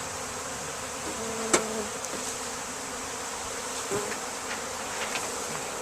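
Honey bee swarm buzzing steadily, with many bees flying about. One bee buzzes close past the microphone a little after a second in, and there is a sharp tick partway through.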